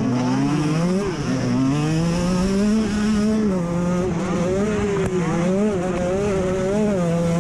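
Off-road motorcycle engine under hard riding, revving up and dropping back again and again as the throttle is worked and gears change, its pitch rising and falling about once a second.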